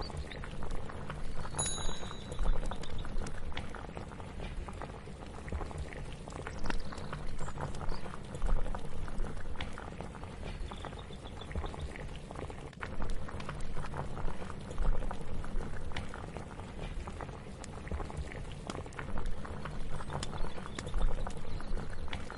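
Kitchen cooking ambience: a pot of liquid bubbling at a boil, with a dense crackle of small pops and soft low swells every six seconds or so.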